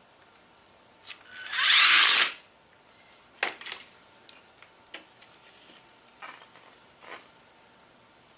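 A power tool running in one short burst of under a second, followed by a few light clicks and knocks of tools being handled.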